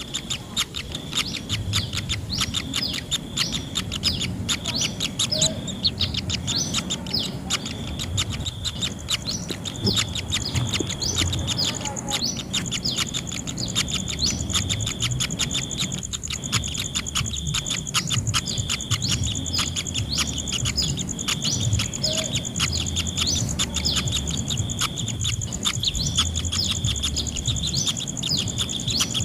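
Kingfisher nestlings giving a fast, continuous run of high begging chirps.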